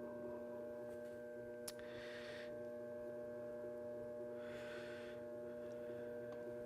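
Electric potter's wheel motor humming steadily and faintly as it spins, with two brief soft swishes along the way.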